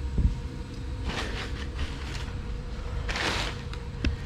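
Workshop handling noises over a steady low hum: a knock at the start, short scraping rustles about a second in and a louder one about three seconds in, and a light click near the end.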